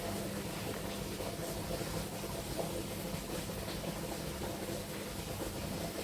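Steady low hum and hiss of background room noise, with a few faint small clicks.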